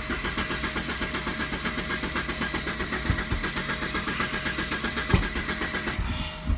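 Porsche 944's four-cylinder engine being cranked over by the starter in a fast, even rhythm for about six seconds without catching, a hard start with the air flow meter unplugged. Two sharp knocks break in, about halfway through and again near the end.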